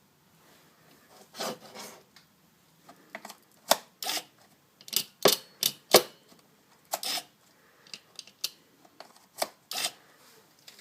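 A run of irregular sharp clicks and knocks, about fifteen of them spread over several seconds, loudest around the middle.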